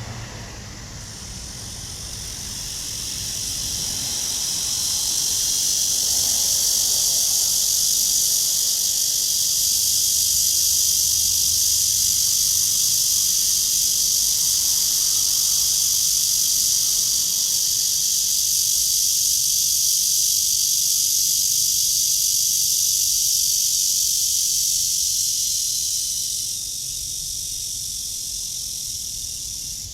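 Cicadas singing: a steady, high, hissing buzz that swells up over the first few seconds, holds, and drops to a lower level near the end.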